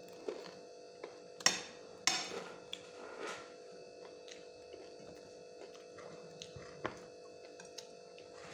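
Close-up eating sounds: chewing and crunching of fried chicken skin with rice, with wet mouth clicks and smacks and a few louder crunchy bites in the first few seconds. A steady hum sits underneath.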